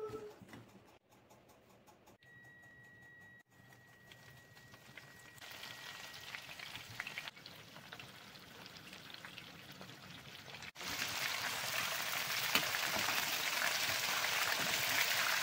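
Batter-coated prawn heads deep-frying in hot oil, a steady sizzle and crackle that comes in faintly about five seconds in and turns much louder about eleven seconds in.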